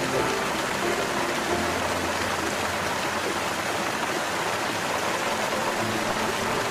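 A steady rushing noise like running water or rain, with soft background music notes under it at the start and again near the end.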